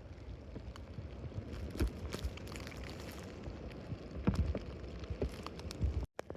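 Wind rumbling on the microphone, with scattered crackles and thumps throughout.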